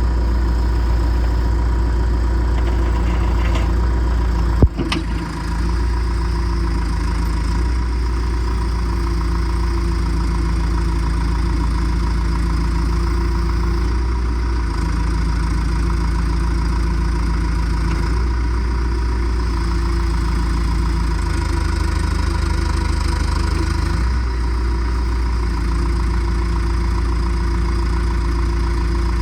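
2001 John Deere 310SG loader backhoe's diesel engine idling steadily, with a single sharp knock about five seconds in.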